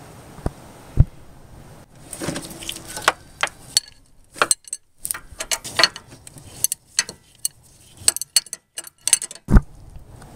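Metal hand tools and parts clinking and clicking: a quick irregular run of sharp metallic clicks and clinks, with two knocks in the first second and one heavier knock near the end.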